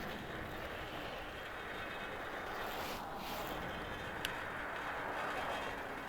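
Steady road and traffic noise heard from an e-bike riding through wet city streets, with a brief hiss about three seconds in and a sharp click about a second later.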